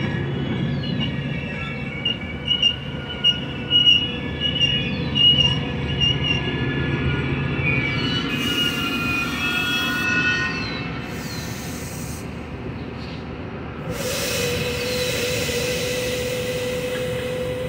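Metra bilevel gallery passenger cars rolling past, their wheels squealing in several high steady tones, with a run of loud clacks a few seconds in. Bursts of hiss come in about halfway through and again for the last few seconds.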